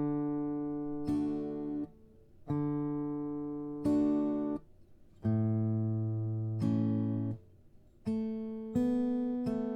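Acoustic guitar played slowly in a boom-chuck pattern, a bass note then the chord, with the strings muted after each pair so the sound cuts off sharply. It moves from a D chord to an A chord about halfway through.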